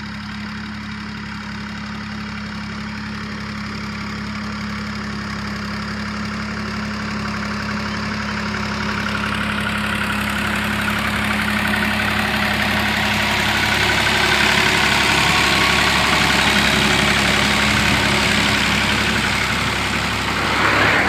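Universal 533 tractor's diesel engine running steadily under load while puddling a flooded field, growing steadily louder from about the middle and staying loud toward the end.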